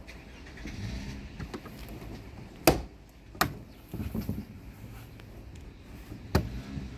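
Three sharp knocks, a little after a third of the way in, again shortly after, and near the end, with softer handling and rustling noises between them: tools and parts being handled during a car's rear shock absorber replacement.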